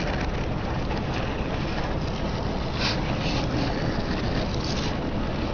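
Car engine running steadily, with a few brief crunching noises in the middle as a tyre rolls over and crushes something.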